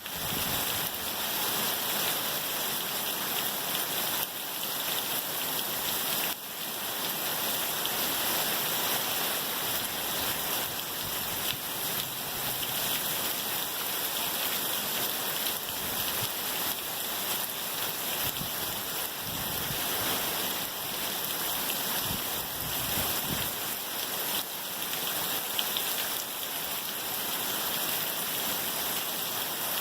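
Torrential thunderstorm rain pouring down in a steady, dense hiss, swelling and easing slightly.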